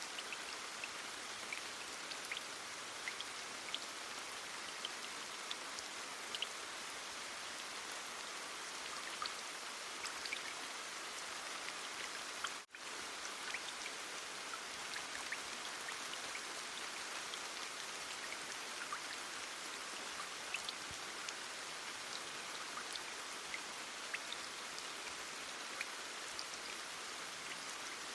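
Heavy rain falling steadily: a dense even hiss flecked with the ticks of single drops. The sound cuts out for a split second about halfway through.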